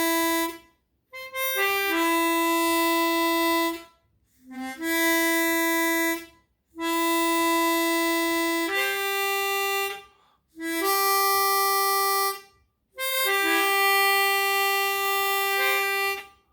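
Chromatic harmonica playing a series of long, steady held notes in about six phrases with short breaks between them, all at about the same loudness. The notes are played with equal breath as a volume test of resonant covers against stock covers.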